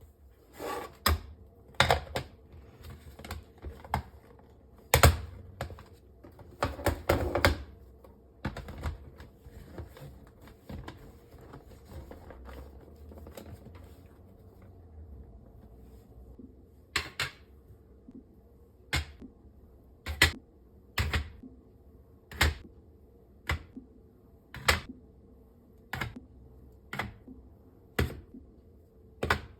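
Irregular sharp taps and knocks, with a few duller thuds, as objects are handled and set down one after another, over a faint steady hum.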